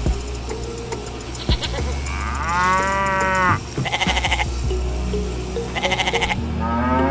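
Bleating: one long drawn-out bleat, then three shorter, quavering bleats, over a steady low hum.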